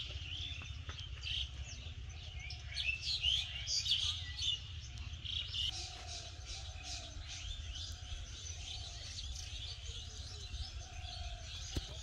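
Small birds chirping, many short high calls, busiest a few seconds in, over a steady low background rumble.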